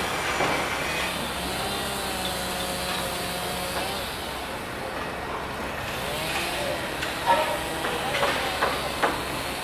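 Heavy machinery running with a steady low hum, with wavering metallic squeals and a few sharp clanks in the second half.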